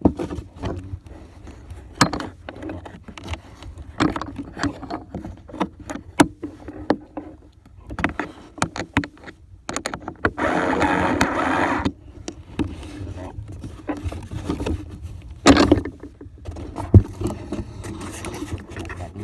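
Irregular knocks, clicks and scrapes, like handling noise, with a steady rushing noise for nearly two seconds about ten seconds in.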